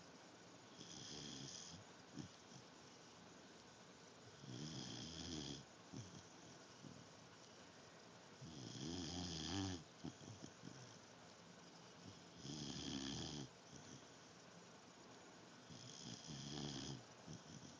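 Sleeping dog snoring: five snores about four seconds apart, each about a second long, the one near the middle loudest.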